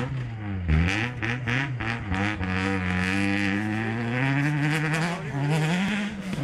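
Rally car engine revving hard as the car drives past, its pitch dipping about a second in and then climbing, with another rise near the end.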